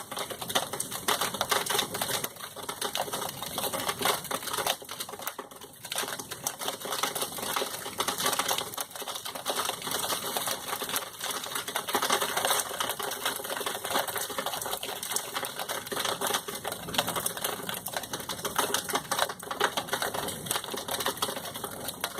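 Rain falling, a dense, irregular clatter of drops striking a hard surface.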